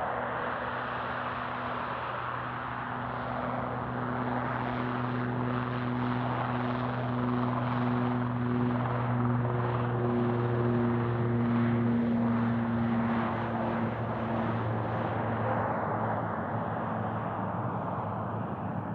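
Airliner taking off at takeoff power: a steady engine roar with a low hum under it, loudest about twelve seconds in, then fading as the aircraft climbs away.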